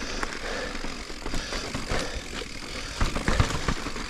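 A full-suspension mountain bike, a Giant Reign 29, rolling fast over rock: tyre noise with the chain and frame rattling and clicking, and a louder run of knocks about three seconds in.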